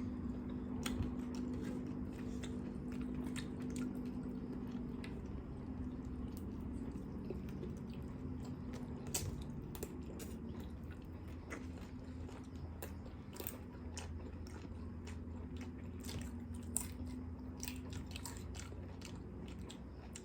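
Close-up chewing and biting into fried chicken lollipops, with irregular crunchy clicks and crackles of the crust throughout, over a steady low hum.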